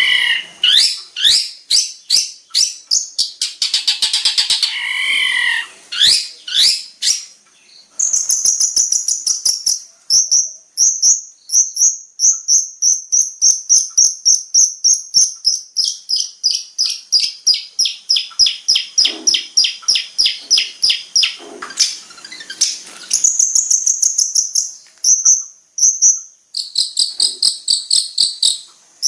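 Long-tailed shrike (cendet) song as played for masteran training: a fast, varied run of high chirps, sweeping whistles and rapid rattling trills, some of them cricket-like, mimicking the calls of other birds and insects.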